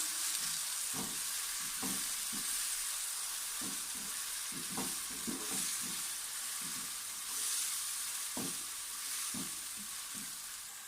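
Chopped tomatoes, green chillies and ginger frying in hot oil in a karahi, sizzling steadily, while a spatula stirs and scrapes the pan in irregular strokes.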